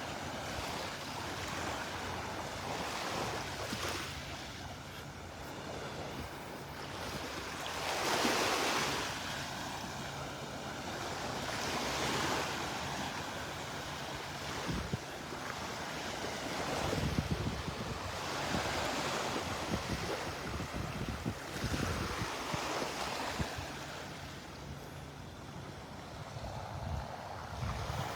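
Small Gulf of Mexico surf washing onto the beach, swelling and fading every four to five seconds, with wind buffeting the microphone.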